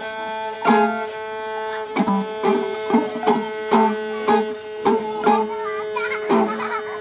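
Free-improvised string music: a violin holds one steady bowed note while a guitar's plucked and struck notes cut in, uneven but roughly two a second.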